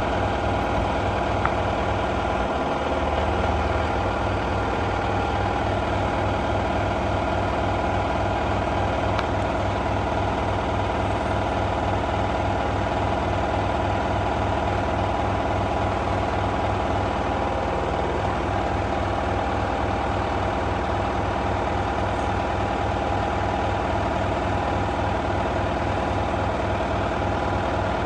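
LG F1222TD washing machine on its full-speed final spin: the drum spinning at high speed with a steady machine whine over a fast, even low pulsing.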